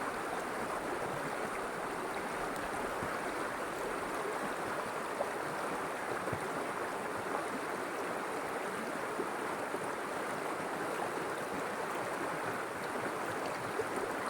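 River water flowing steadily in a continuous rush with fine splashing.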